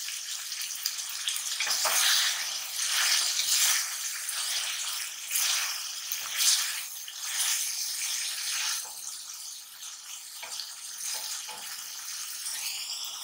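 Chopped tomatoes and chicken pieces sizzling in hot oil in a metal karahi, with a wooden spatula stirring and scraping the pan in repeated strokes.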